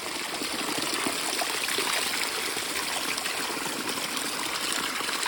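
Small stream of water running and trickling steadily.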